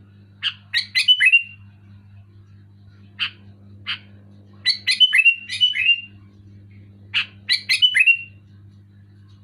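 Sooty-headed bulbul singing: three short, loud bursts of quick whistled notes, each ending in a falling slur, with two single notes between the first and second bursts.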